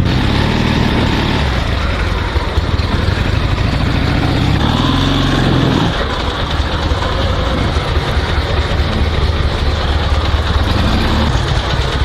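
Dnepr MT16 sidecar motorcycle's flat-twin engine running at low revs as the bike is backed up in reverse gear, its note rising and falling briefly twice.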